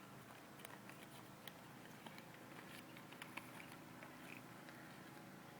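Near silence, with a few faint scattered ticks and clicks.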